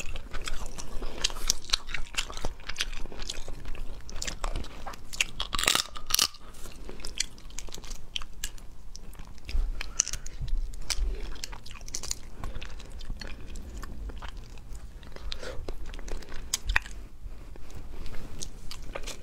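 A person eating crayfish and crab meat close to the microphone: biting and chewing, with many small sharp clicks and crackles throughout.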